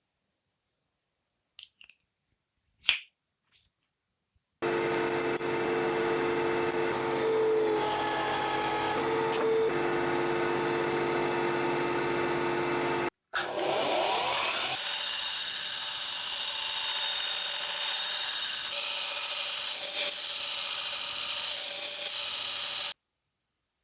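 Motor-driven workshop tool running steadily after a few light clicks, stopping briefly, then spinning back up with a rising whine and running steadily again with a hiss until it cuts off near the end.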